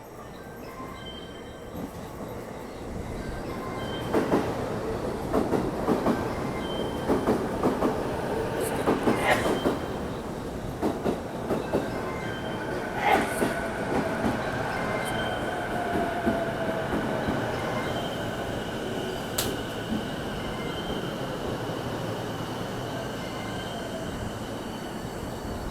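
Electric commuter train of the Chūō Line running on the rails. A run of clattering clicks over rail joints comes a few seconds in, then a whine that falls in pitch as the train slows.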